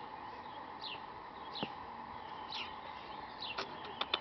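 A bird calls four times with short, quick, high chirps that fall in pitch, about one a second, over a faint steady hum. A few sharp clicks come near the end.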